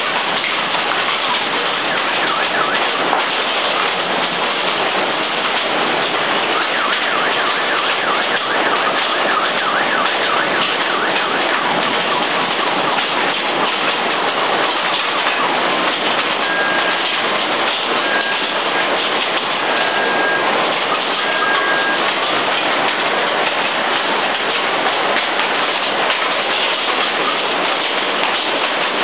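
Torrential rain pouring down in a severe windstorm: a loud, steady, dense hiss. Partway through, four short high beeps come at even spacing, about a second and a half apart.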